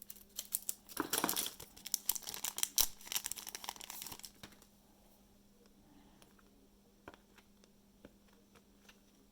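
Plastic trading-card pack wrapper crinkling and rustling as it is handled, for about four and a half seconds, then only a few faint ticks.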